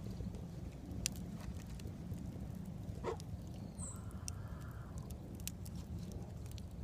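Bonfire crackling with scattered sharp pops over a steady low rumble, and a brief chicken call about three seconds in.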